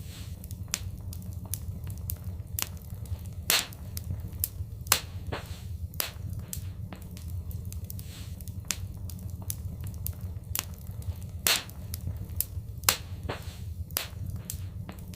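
Wood fire in a fireplace crackling, with frequent sharp pops, a few of them louder, over a steady low rumble.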